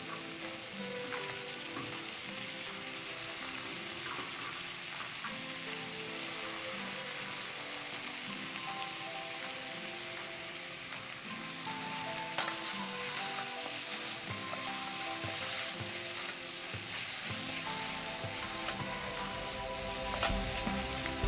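Chopped onion, garlic, green chillies and tomato sizzling as they fry in hot mustard oil in a kadai, stirred with a wooden spatula. The sizzle is steady, a continuous hiss.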